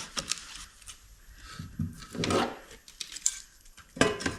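Split firewood pieces knocking and scraping against each other as they are packed by hand into a firewood bundler, with a sharper knock near the end.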